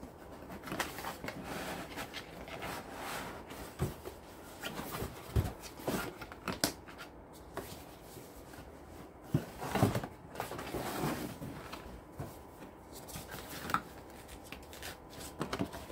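Cardboard box and packaging being handled while a robot vacuum is worked out of it: irregular rustling and scraping with scattered knocks, the loudest a little past the middle.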